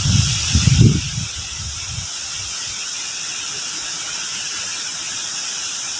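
Strong wind rushing through trees and vegetation: a steady, high hissing noise, with a louder low rumble over the first two seconds.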